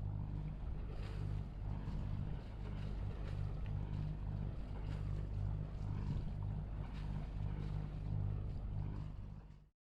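Boat engine running steadily with a low, slightly pulsing drone over water and wind noise. It cuts off suddenly near the end.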